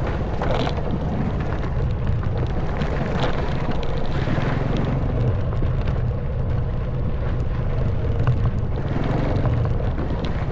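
Honda Wave 110cc single-cylinder four-stroke engine running steadily under way, with wind rushing over the microphone. Scattered small knocks and clicks come from the bike riding over a worn, gravelly stone track.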